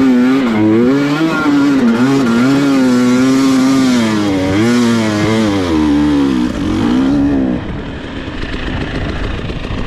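Dirt bike engine revving up and down under load in soft, chewed-up ground with little traction. About seven and a half seconds in the engine note eases off and a quieter, even noise remains.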